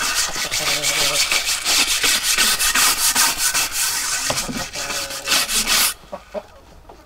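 Wood being worked by hand with quick, repeated scraping strokes, like sanding or rasping, stopping abruptly about six seconds in.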